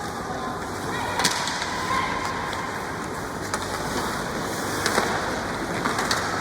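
Steady rink noise during a hockey game, with a few sharp knocks scattered through it, typical of sticks and puck striking.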